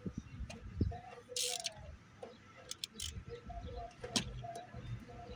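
Scattered clicks and knocks of a ratchet wrench and hand tools on metal as engine bolts are worked loose, with a short hiss about a second and a half in. Short bird chirps repeat in the background.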